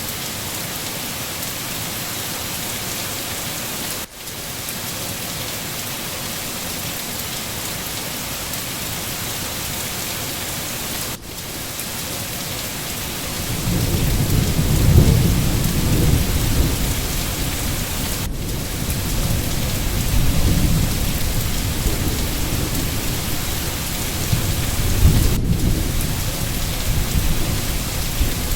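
Steady heavy rain hiss. From about halfway, low rolling thunder swells in and rumbles on, with several louder peaks. The hiss dips briefly about every seven seconds.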